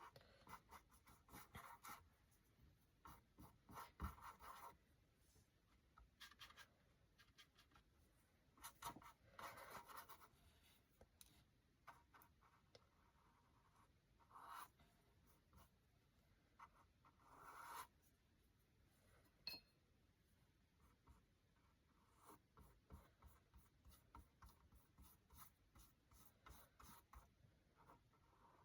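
Faint scratching of a paintbrush dragging acrylic paint across a canvas in short, irregular strokes with quiet pauses between them.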